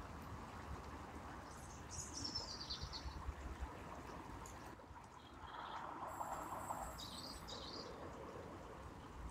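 Birds chirping in short high runs, a couple of times, over faint steady outdoor background noise.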